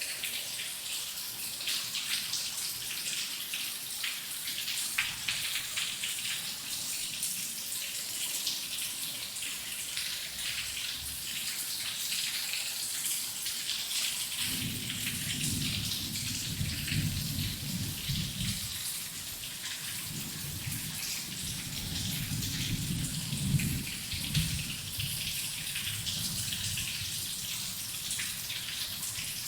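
Heavy rain falling steadily, a dense patter of drops. About halfway through, a low rumble of distant thunder rolls in and lasts about ten seconds.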